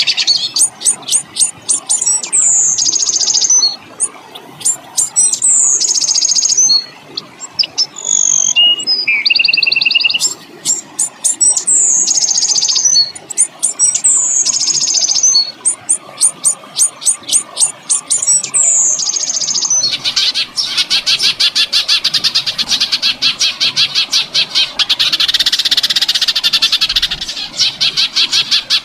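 Songbird song from a cage-bird training (masteran) recording: a bird repeats a phrase of rapid sharp ticks ending in a high descending whistle every two to three seconds, with a lower warbled phrase once in the middle. About two-thirds in, a fast, continuous rolling trill takes over.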